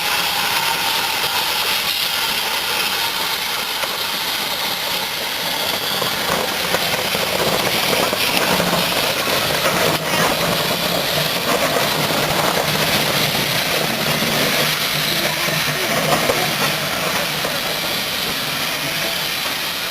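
A steam locomotive hissing steadily as it lets off steam.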